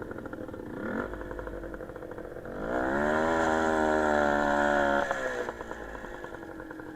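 Small motorcycle engine running, blipped briefly about a second in, then revved hard and held at high revs for about two seconds before dropping back and fading away.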